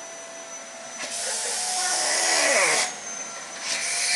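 Vacuum cleaner running with a steady high whine, then two loud rushing surges of air noise, the first lasting nearly two seconds and the second shorter, near the end.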